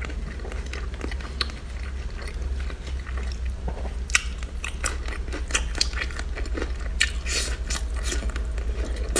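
Close-up mouth sounds of a person biting and chewing soft braised pork belly: wet smacks and clicks at irregular intervals, busiest about halfway through and again near the end. A steady low hum runs underneath.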